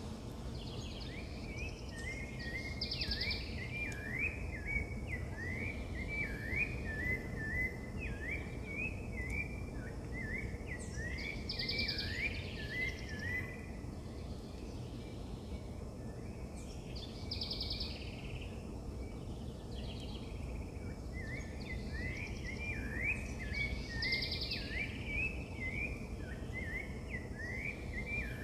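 Songbirds singing: long runs of quick, repeated chirping notes, one for about the first dozen seconds and another starting again near the end, with a short higher note breaking in a few times. A steady low background noise runs underneath.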